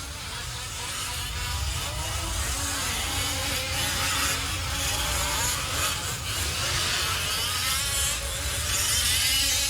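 Several 1/5-scale RC off-road trucks' small gas two-stroke engines buzzing together as they race, their pitch wavering up and down with throttle.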